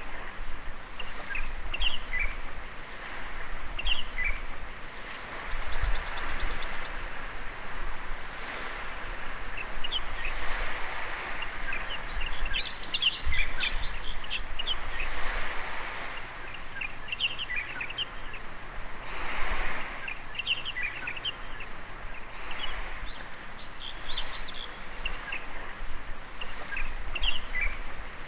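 Small birds chirping in short, high calls throughout, over the steady wash of waves on a beach that swells and fades every few seconds.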